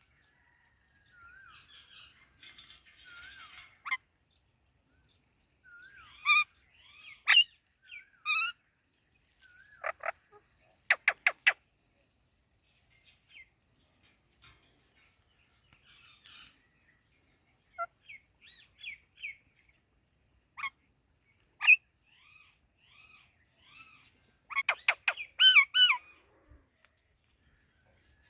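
Pet parakeets, an Indian ringneck and an Alexandrine, chattering softly, broken by sharp shrill calls: a few single calls, a quick run of four, and a burst of loud repeated calls near the end.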